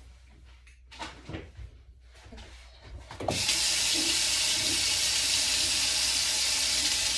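A kitchen tap is turned on about three seconds in and runs steadily into the sink, after a few light knocks and handling sounds.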